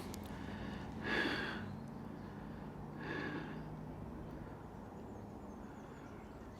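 A man breathing out heavily twice, close to the microphone, about a second in and again about three seconds in.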